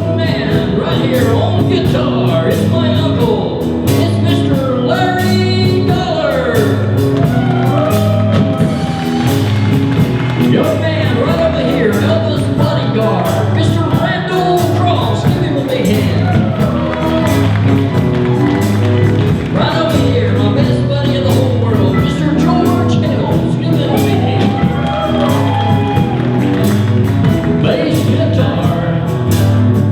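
A live band playing a song with a steady beat, with singing over it.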